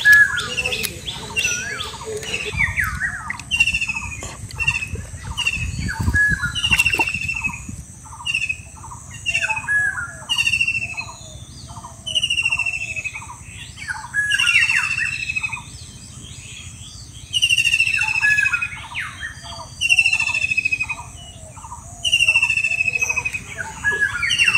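Birds calling: short falling whistled notes repeated every second or two, with other chirps lower down, over a steady high-pitched hum. A brief low thump comes about six seconds in.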